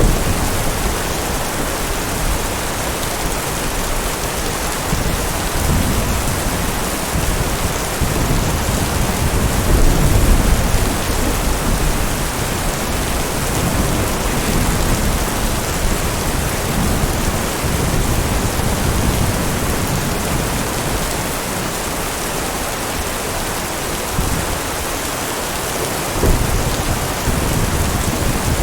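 Steady heavy rain with low rolls of thunder that swell several times, the strongest about ten seconds in and another near the end.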